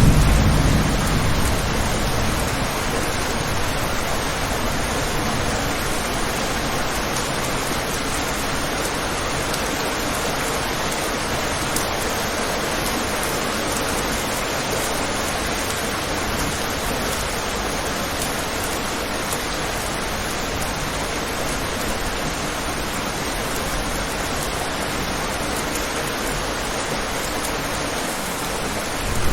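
Steady rain falling, an even hiss, with the low rumble of a thunderclap dying away in the first second or two.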